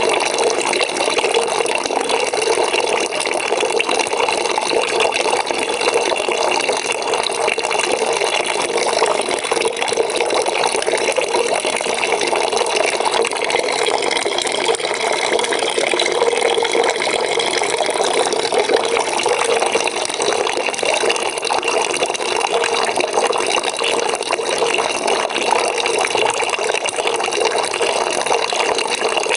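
Water pouring steadily from a tap into a bucket, a continuous even splashing with a resonant tone from the filling bucket.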